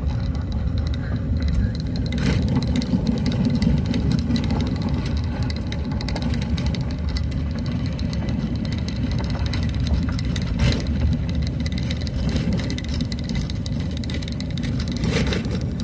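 Motor vehicle driving along a road: a steady low engine and road rumble with frequent short rattles and knocks.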